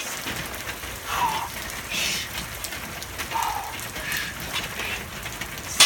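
Steady rain falling, with four short louder sounds spaced through it.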